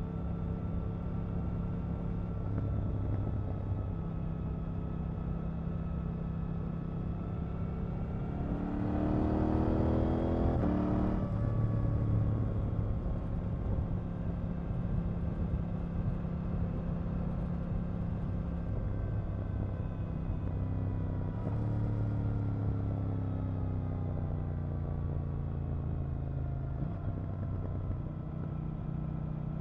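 KTM 890 Duke R's parallel-twin engine under way. It runs at steady revs, then revs climb under acceleration about nine seconds in and drop sharply about two seconds later. It settles back to steady running, and the revs slowly fall in the last third.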